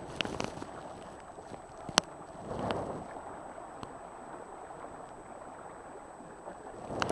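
Water sloshing and lapping against a small sailing dinghy's hull, with a sharp knock about two seconds in.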